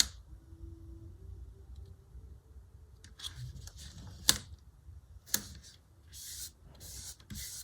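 Paper and sticker handling on a planner page: a few sharp light taps and clicks, then short papery rustles near the end.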